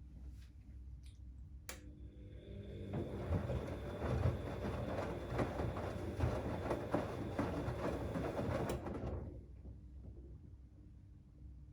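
Siemens XLS 140 A front-loading washing machine on its 90 °C boil wash, turning its drum. A click, then the motor spins up. The wet rags tumble and slosh for about seven seconds before the drum slows to a stop.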